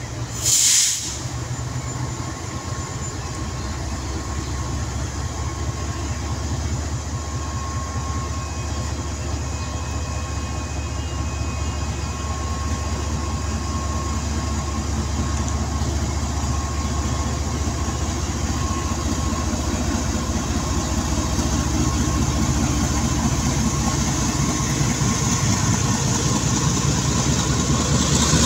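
Passenger train pulling out behind a GE GEU-40 diesel-electric locomotive: the diesel engine runs steadily under load while the coaches roll past, wheels clattering over the rails, growing gradually louder. A brief loud burst comes about a second in.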